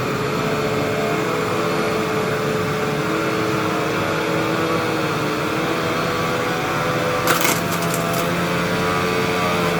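Hoover WindTunnel bagless upright vacuum cleaner running steadily, a motor hum with a steady whine. A few sharp clicks come about seven seconds in.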